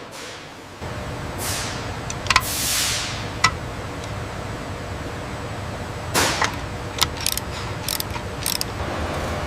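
Factory machinery sound effects: a low steady machine hum comes in about a second in, with two whooshes and a run of sharp mechanical clicks and clanks.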